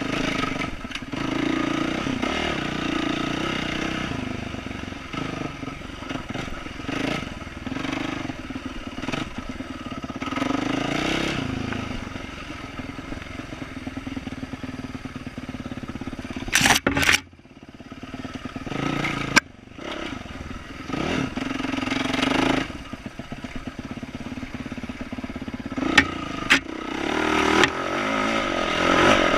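A 2012 Yamaha YZ450F dirt bike's single-cylinder four-stroke engine, through an aftermarket exhaust, is worked on and off the throttle in repeated swells while riding over a rooty trail. There are sharp knocks a little after halfway and twice near the end, and the engine sound nearly drops out for a moment just after the first knocks.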